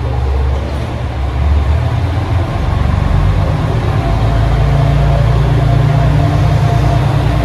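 A train's low engine drone, growing louder and stepping up in pitch about three seconds in.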